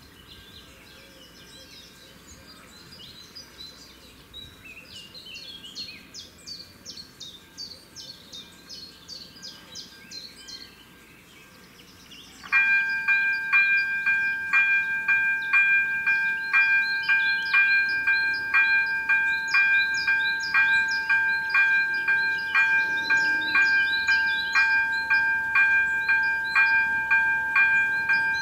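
Birds chirp and sing for about twelve seconds. Then the electric warning bell of an AŽD 97 level crossing starts ringing suddenly and loudly, with a rapid steady pulse, signalling that a train is approaching. The birds carry on behind the bell.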